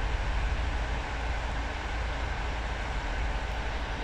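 Steady low rumble and rolling noise of a moving passenger train, heard from inside the carriage.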